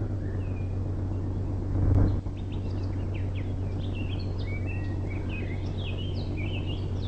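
Birds chirping, with many short, quick chirps starting about two and a half seconds in, over a steady low hum. The hum swells briefly about two seconds in.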